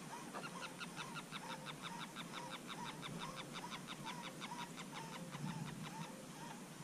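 Faint birdsong: a long, fast run of short notes, about six a second, that stops about a second before the end, over a short wavering call repeated about twice a second.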